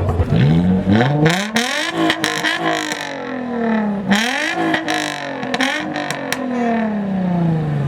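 A performance car's exhaust revving hard twice, the engine pitch climbing sharply then falling away slowly each time, with sharp pops and crackles from the exhaust as the revs drop.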